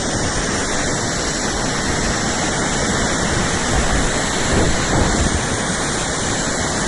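Whitewater of river rapids, a steady loud rush of water.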